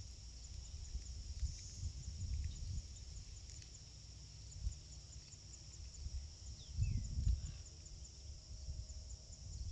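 Insects chirping outdoors in a steady high-pitched trill of rapid, even pulses, with a low rumble underneath that swells about seven seconds in, and one short falling chirp just before it.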